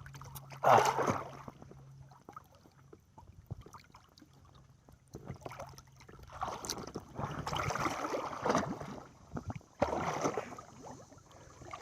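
Lake water splashing and sloshing around a person treading water beside a kayak, in uneven bursts, heaviest about a second in and again in the last few seconds, with a faint low hum under the first half.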